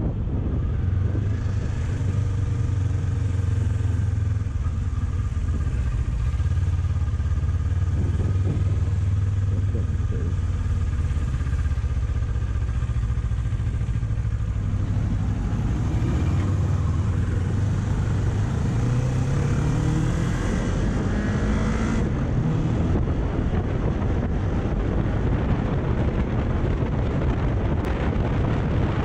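Kawasaki Ninja 400's parallel-twin engine idling steadily for the first half, then pulling away with a rising pitch as it accelerates. From a little over two-thirds of the way in, wind noise on the microphone takes over at road speed.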